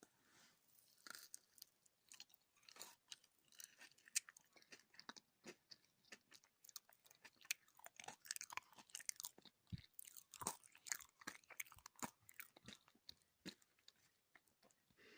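Close-miked chewing of gummy jelly candies: soft, sticky, wet mouth clicks and smacks at an irregular pace, with a few sharper bites.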